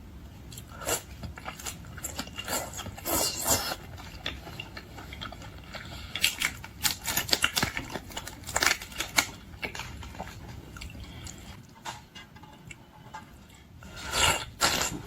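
Close-up eating sounds of boiled seafood: chewing, with irregular sharp crunches and cracks that come in louder clusters about three seconds in, from six to nine seconds, and near the end.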